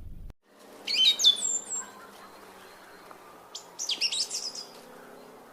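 A small bird chirping: two short bursts of quick, sweeping high notes, one about a second in and one near four seconds.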